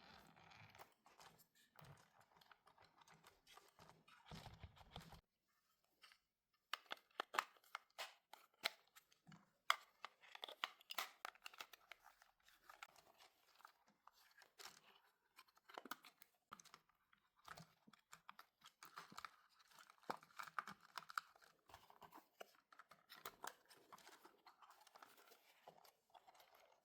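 Packaging being opened and handled: faint tearing, crinkling and rustling with many scattered clicks and small knocks, pausing briefly about five seconds in.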